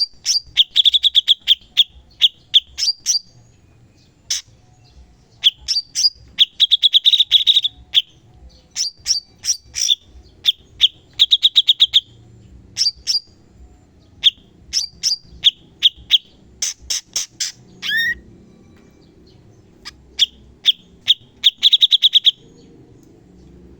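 Cucak cungkok singing: rapid strings of sharp, clicking notes and fast high trills, in phrases broken by pauses of a second or so.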